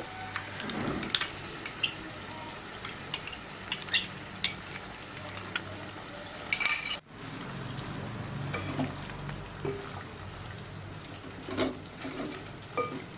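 A spoon stirring chicken korma gravy in a pan over a steady sizzle, with scattered taps and scrapes of the spoon against the pan. There is a louder scrape about six and a half seconds in, then the sound cuts off abruptly for a moment.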